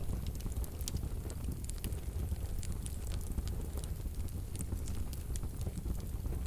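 Wood fire burning in a fireplace stove: a steady low rumble of the flames with many small sharp crackles and pops scattered throughout.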